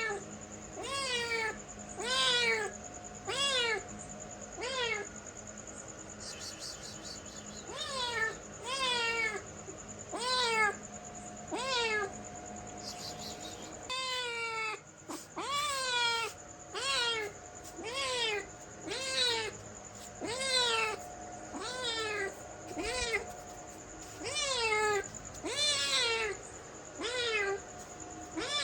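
A cat meowing over and over: short meows that rise and then fall in pitch, about one a second, with a few brief pauses between runs.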